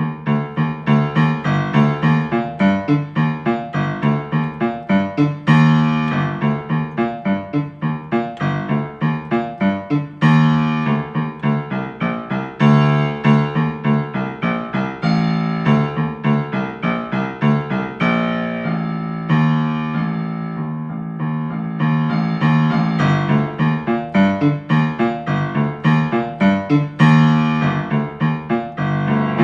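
Solo piano playing a fast, energetic easy piano piece, with a driving pulse of repeated low notes under the melody.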